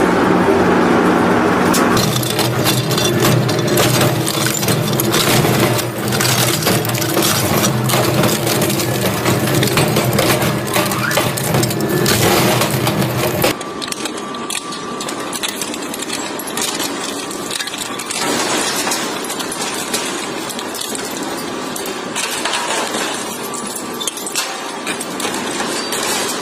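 A crushing machine running, with a steady motor drone and dense rattling of material being broken up. About halfway through, the drone cuts off suddenly, leaving quieter clinking and rattling.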